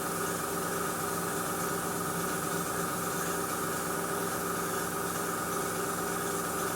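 Airbrush spraying a fine mist of thinned white enamel, a steady hiss over the constant hum of its small air compressor motor.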